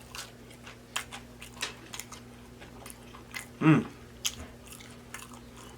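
Close-up mouth sounds of a person chewing a fast-food sandwich, with scattered wet smacks and clicks and a brief voiced "mm" about three and a half seconds in. A faint steady electrical hum runs underneath.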